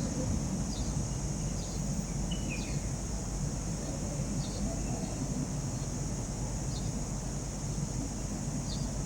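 Outdoor ambience: a steady low rumble with a steady high hiss over it, and a small bird's short high chirps repeating about once a second, with a pair of falling notes about two seconds in.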